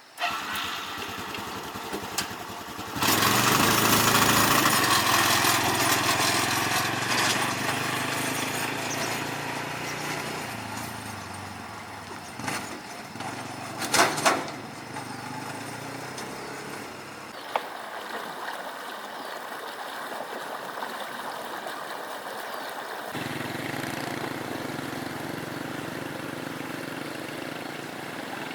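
A small engine running steadily, its sound changing abruptly several times, with a couple of sharp clicks about halfway through.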